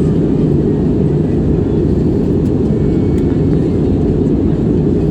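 Steady, loud low roar of a Wizz Air jet airliner, even throughout with no change in pitch.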